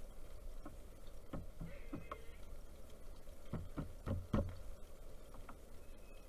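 Irregular hollow knocks and thuds in small clusters, the sound of a pileated woodpecker pecking and hammering at a feeder.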